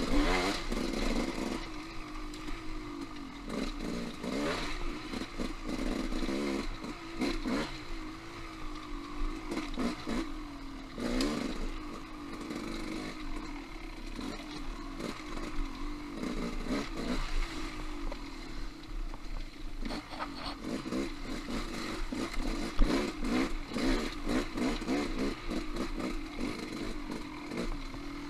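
Dirt bike engine running with its revs rising and falling, with frequent clatter and knocks throughout and one sharp knock about 23 seconds in.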